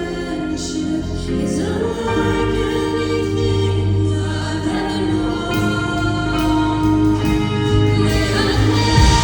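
Contemporary worship music: several voices singing long held notes over sustained instrumental chords and a steady bass.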